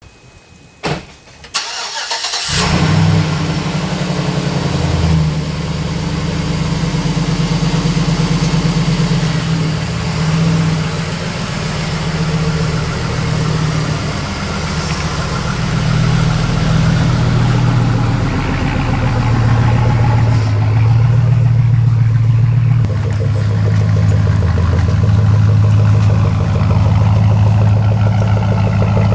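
Straight-piped Chevrolet Silverado exhaust: a couple of clicks, then the engine starts about two and a half seconds in and runs loud, its revs rising and falling.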